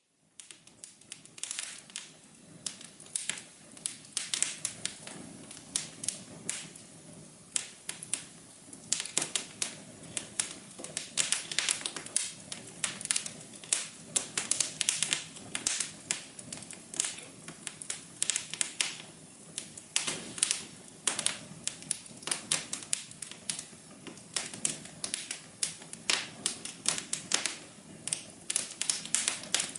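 Wood fire crackling and popping in a fireplace: irregular clusters of sharp crackles over a low steady background.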